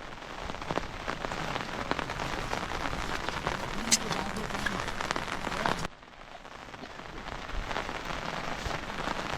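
Rain falling steadily, a dense hiss full of individual drop hits. A sharp tick stands out about four seconds in; a little before six seconds the sound drops off suddenly and then builds back up.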